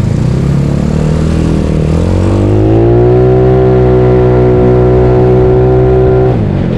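Bored-up Yamaha Mio scooter's single-cylinder four-stroke engine accelerating about two seconds in. Its pitch rises and then holds steady, then drops suddenly near the end.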